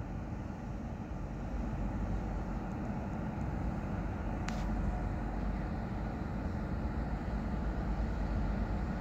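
Low, steady rumble of a distant train approaching, growing slightly louder, with a single sharp click about four and a half seconds in.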